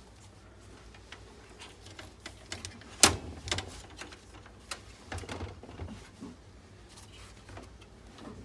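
Scattered clicks and knocks of desktop PC parts being handled during disassembly, with one louder knock about three seconds in and a run of lighter clicks after it.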